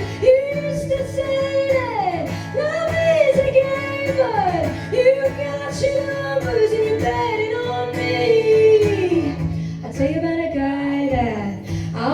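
A woman singing over guitar accompaniment, holding long notes that slide downward at the ends of phrases.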